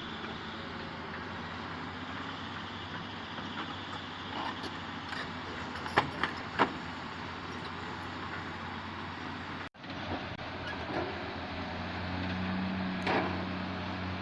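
Heavy diesel machinery, an excavator and dump truck loading soil, running steadily, with a couple of sharp metal clanks about six seconds in. After a sudden break, the engine note grows louder and holds, with another knock near the end.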